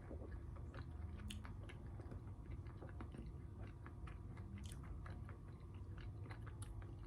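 Close-miked chewing of food in the mouth, with many small irregular wet clicks and smacks over a low steady hum.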